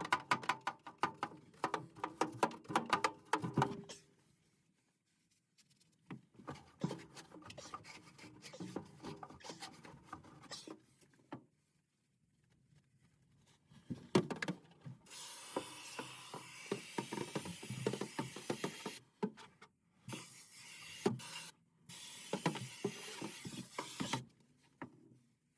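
Scraping and rubbing of a tool or brush against caked debris, in irregular strokes. After a pause there are three bursts of hissing spray, each cut off sharply.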